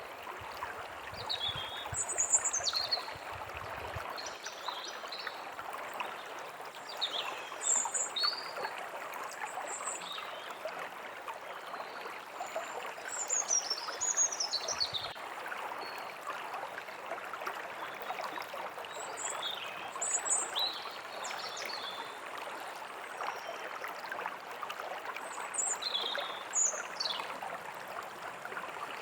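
Forest ambience: a steady rushing stream, with birds chirping over it in short, quick chirps and whistles scattered throughout.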